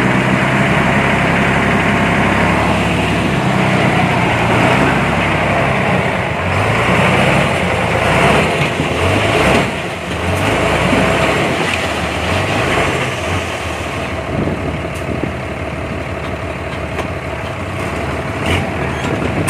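Diesel engine of heavy earthmoving machinery running steadily under varying load, its low pitch shifting in steps, with a few short knocks around the middle.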